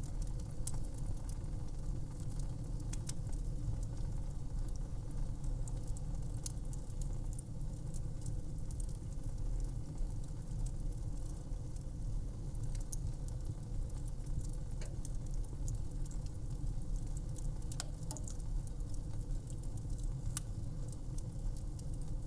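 Fire crackling: scattered sharp pops and snaps over a steady low rumble of the flames.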